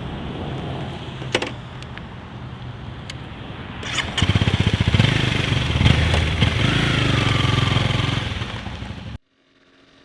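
2011 Honda CBR250R single-cylinder engine heard on the move, with wind noise. About four seconds in the engine gets louder and pulses fast as it accelerates, its pitch rising; it cuts off abruptly near the end.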